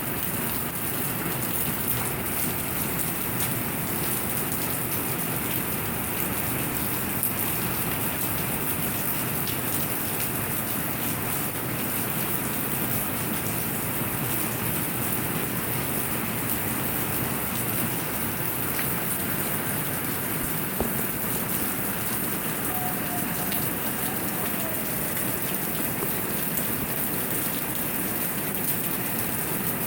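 Steady rain falling: an even hiss of many drops, with small ticks of single drops, unchanging in strength.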